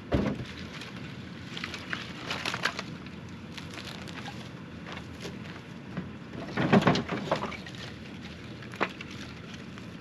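Wood cracking and snapping in a few short crackly bursts, the loudest a little past the middle, over a steady low outdoor background.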